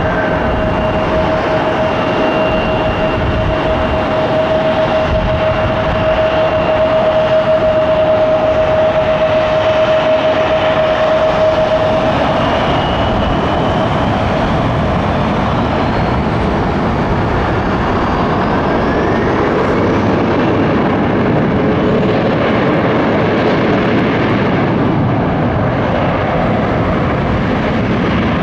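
Jet airliner engines running loud and steady. A steady engine whine fades out about twelve seconds in, and higher whines rise in pitch a little later.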